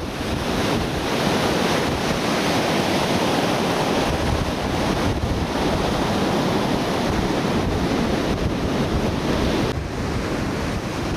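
Pacific Ocean surf breaking on a sand beach, a steady wash of noise, with wind buffeting the microphone.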